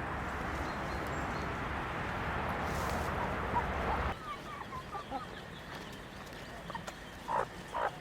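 A steady rushing noise cuts off abruptly about halfway through. After it, chickens cluck, with soft calls at first and a few loud short clucks near the end.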